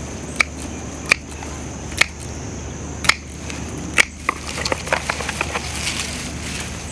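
Hand pruners snipping through dry, dead garden stems, one sharp snip about every second, then a quick run of smaller snaps and crackles as the cut stalks are pulled away.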